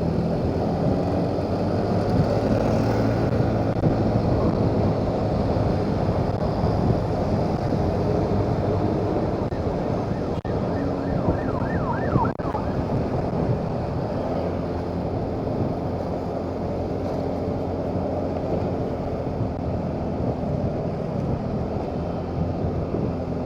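Motorcycle engine running steadily on the move, with road and wind noise on the microphone. Partway through, a short run of rising, whistle-like tones is heard.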